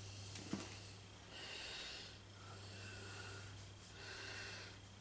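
A person breathing audibly, three slow breaths in a row, over a steady low hum, with a small click about half a second in.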